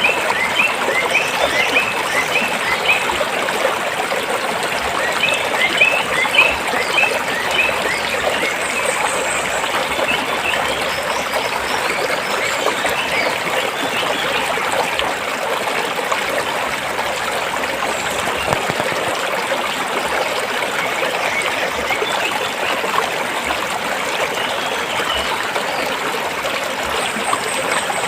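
Forest stream running steadily over rocks, a constant rushing and trickling. Runs of quick high bird chirps come in over the first few seconds and again around six seconds in.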